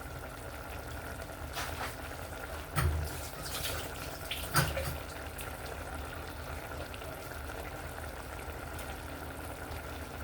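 Pot of chicken simmering on the stove, a steady bubbling, with a few short knocks between about one and a half and five seconds in.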